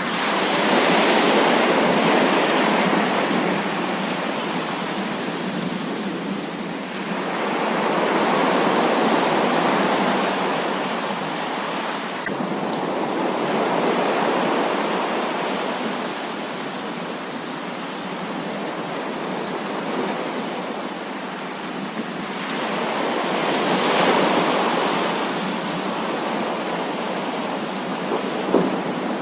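Heavy rain: a dense, steady hiss of falling water that swells and eases in slow waves every several seconds. A few sharp drip ticks come through near the end.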